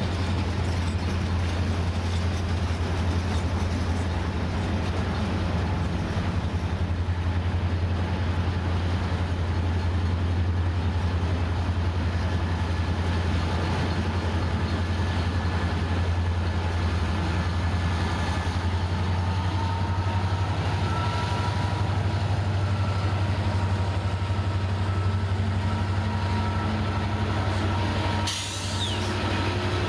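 Norfolk Southern iron ore train rolling past: a mid-train diesel locomotive goes by, then loaded open hopper cars follow with a steady rumble. From about twelve seconds in, faint high steady squeals from the wheels ride over the rumble. A brief break comes near the end.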